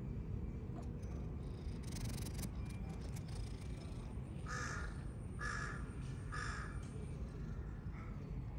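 A bird cawing three times, each call short and harsh, about a second apart, over a steady low background rumble. A brief rustling comes about two seconds in.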